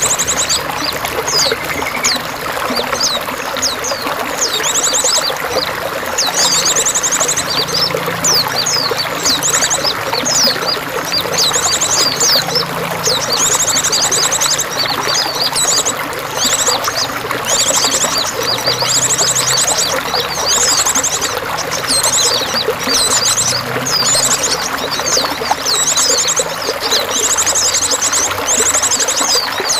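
Steady pouring, trickling water with songbirds chirping and singing over it. The song includes many quick high chirps and short, fast, buzzy trills repeated every second or two.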